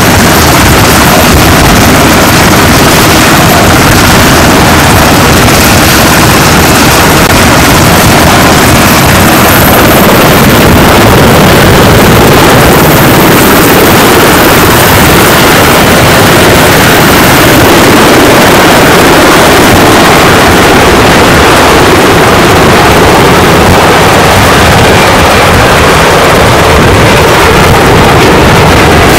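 Loud, steady engine and rotor noise of a US Navy helicopter, an unbroken rushing roar with a faint high whine above it.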